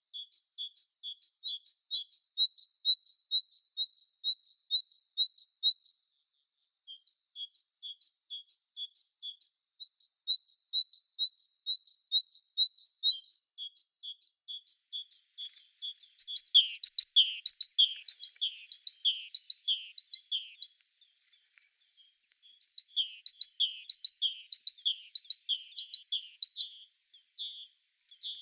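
Songbirds calling: a string of short, high chirps repeated a few times a second, rising into two louder runs of notes. Later come two busier, warbling song phrases of a few seconds each.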